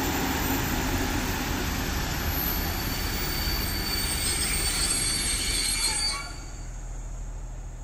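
Train passing close by, a heavy rumble of wheels on rail with a high wheel squeal over it; the noise drops away suddenly about six seconds in, leaving a low steady hum.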